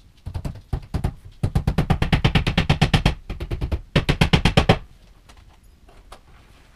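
Rapid run of sharp knocks, about ten a second, in two bursts separated by a short pause, with a few scattered single knocks around them: work on a flat-pack bookcase being assembled.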